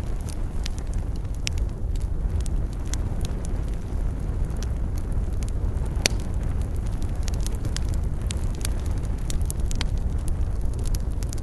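Wood campfire crackling, with scattered sharp pops, the loudest about six seconds in, over a steady low rumble.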